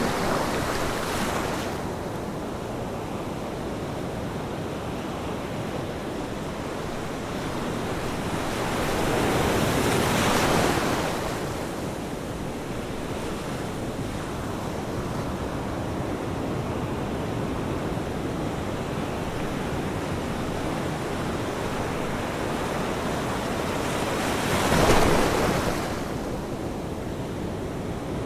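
Ocean surf: a steady wash of waves, with one wave swelling and breaking about ten seconds in and another breaking more sharply near the end.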